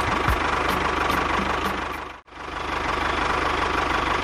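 A small engine running steadily with a fast, even low pulsing. It cuts out for a moment about halfway through, then carries on unchanged.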